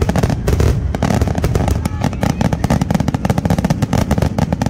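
Aerial fireworks barrage: many shells bursting in quick succession, a dense run of sharp cracks and booms over a continuous low rumble.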